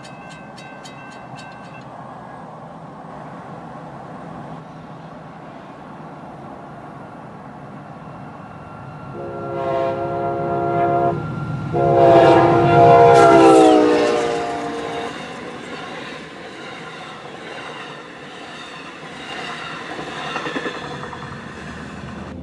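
Amtrak locomotive's Nathan K5LA five-chime air horn sounding two long blasts, the first about two seconds and the second about three and louder, over the steady rumble of the passing train.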